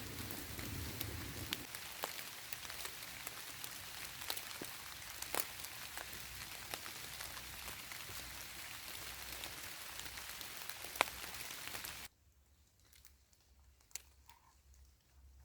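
Steady rain falling, an even hiss with sharp ticks of single drops. It cuts off abruptly about twelve seconds in, leaving near quiet.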